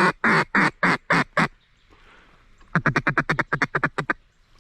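Loud duck quacking in the style of a mallard hen: about six quacks, a short lull, then a quicker run of about a dozen quacks.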